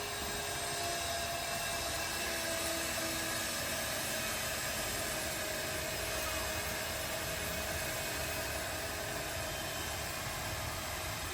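Steady hiss of water spraying, with a faint steady hum under it.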